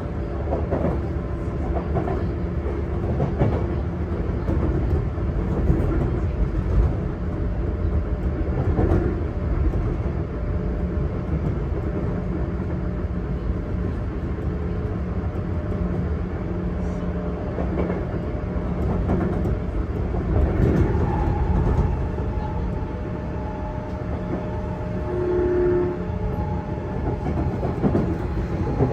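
Running noise inside a Sotetsu 8000 series electric train's motor car as it runs between stations: a steady rumble of wheels on rail with occasional rail-joint clicks and a faint motor hum. A higher steady hum comes in about two-thirds of the way through.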